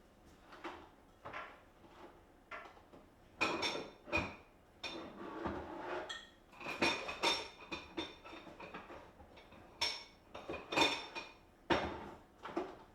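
Dishes and cutlery clinking and knocking at an irregular pace, some strikes ringing briefly.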